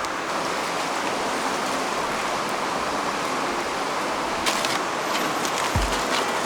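Mountain stream water rushing steadily, with a few light clicks and a couple of low thumps near the end.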